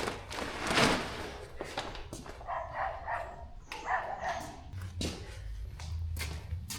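A dog whining twice, each call under a second long and about a second apart. A thump comes about a second in.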